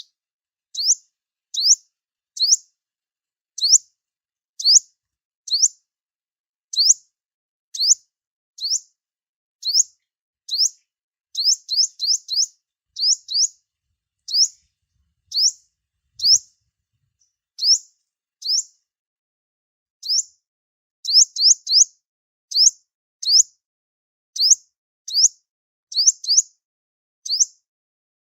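Sunbird calling: short, sharp, high chip notes repeated about once or twice a second, now and then in quick runs of three or four.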